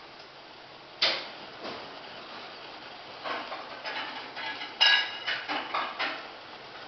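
Clattering knocks and clinks of hard objects: one sharp knock about a second in, then a quick run of clinks, the loudest with a brief metallic ring.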